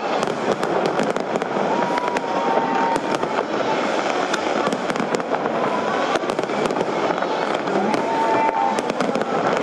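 Large fireworks display going off in a dense, continuous barrage of crackling and many sharp bangs, with no pause. A short steady tone sounds twice over it, a few seconds apart.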